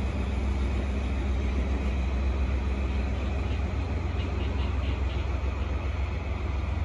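A freight train of empty container flatcars rolling slowly past on the rails, with the steady low drone of the DE10 diesel-hydraulic locomotive hauling it.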